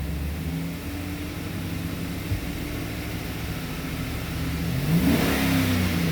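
2007 Chevy Silverado 1500's 5.3-litre V8 idling steadily, then revved up once about five seconds in before dropping back toward idle.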